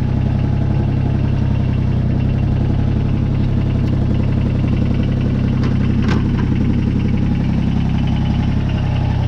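Kubota BX22's three-cylinder diesel engine running steadily, with a faint short click about six seconds in.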